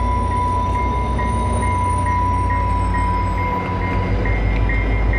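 VIA Rail GE P42DC diesel locomotive rolling slowly past as the train pulls in, its engine and wheels making a heavy, steady rumble. Over it a level-crossing bell rings evenly, about twice a second.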